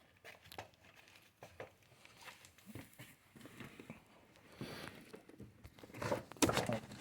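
Rustling and handling noises with scattered small clicks and knocks as a person squeezes into the car with a hand-held camera, with a louder cluster of knocks about six seconds in; the engine is not yet running.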